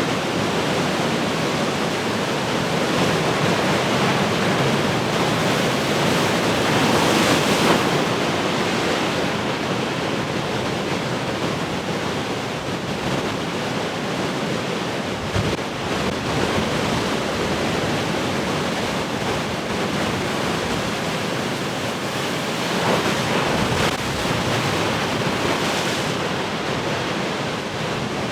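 Heavy ocean surf: large waves breaking and rushing in a steady roar, with surges about seven seconds in and again a little past twenty seconds. Wind buffets the microphone.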